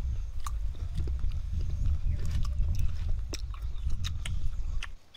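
Close crunching and chewing of raw green mango, crisp snaps over a heavy low rumble, stopping abruptly near the end.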